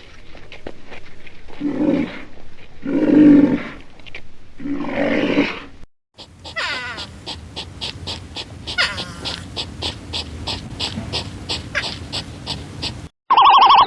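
Animal calls: three long, deep roar-like calls, then after a cut a different animal sound of quick, evenly repeated pulses.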